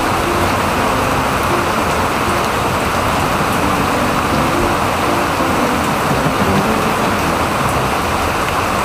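Steady heavy rain falling on a wet concrete yard.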